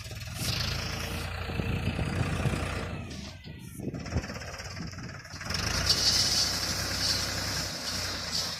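Tractor engine running under a Bull attachment; it eases off briefly in the middle and then picks up again with a louder, hissier sound about two-thirds of the way through.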